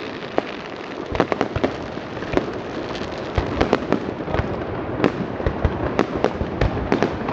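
Fireworks display going off: many sharp bangs in quick succession over a continuous rumbling haze of bursts.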